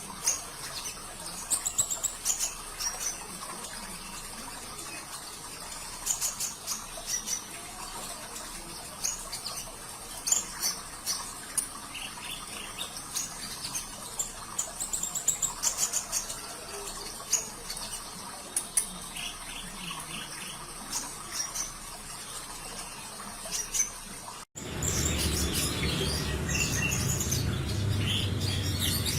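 Brown-throated sunbird (kolibri ninja) singing rapid, high, sharp chirps and short trills over a steady trickle of running water. Near the end the sound drops out for an instant and the water comes back louder and deeper.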